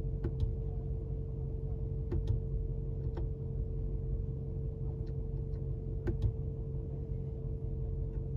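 Short sharp clicks, some in quick pairs, from the car's infotainment controls being pressed while stepping through the menus. Under them is a steady low hum in the cabin.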